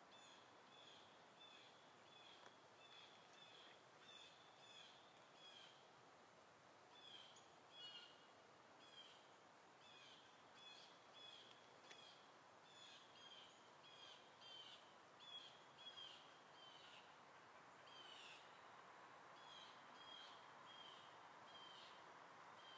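Faint bird chirping: short repeated calls, about two a second, with a brief pause about six seconds in, over a faint steady hiss.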